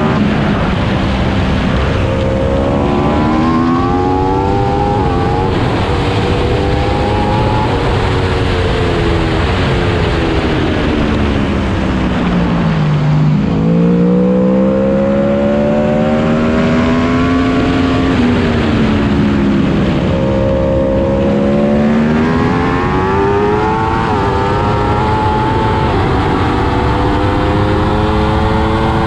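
Aprilia RSV4 superbike's V4 engine lapping at track speed over a steady rush of wind noise. The engine note repeatedly climbs and falls away, winding down to its lowest about 13 seconds in, then climbing again.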